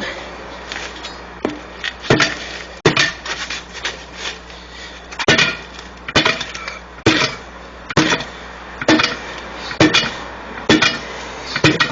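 Hammer blows striking a screwdriver wedged between a stiff truck tire's bead and the rim, about ten sharp knocks roughly one a second, to work the tool in on a tire that is hard to break loose.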